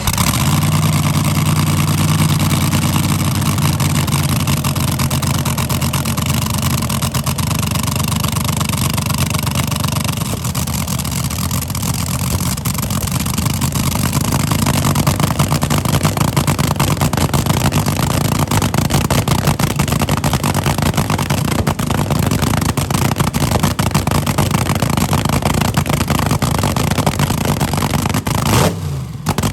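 Car engine held at high revs for a long stretch, loud and steady, with a broad hiss over it; it cuts out abruptly for a moment near the end.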